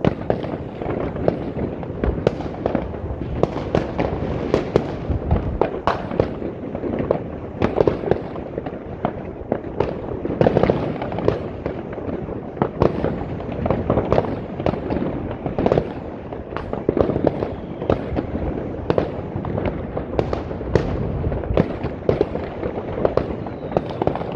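New Year's fireworks: a dense, unbroken barrage of firecracker bangs and crackling, several sharp reports a second with no pause.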